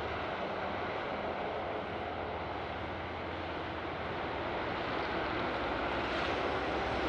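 Steady rumbling noise of a train running, growing slightly louder near the end.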